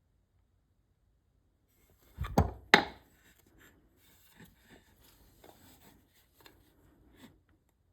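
Two sharp knocks about two seconds in, a tool striking cherry wood as it is chiseled, followed by faint light taps and scrapes.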